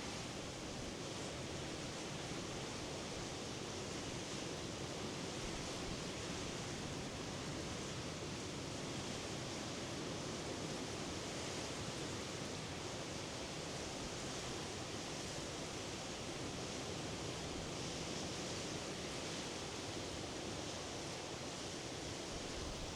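Steady, even rushing of sea surf, with no single breakers standing out.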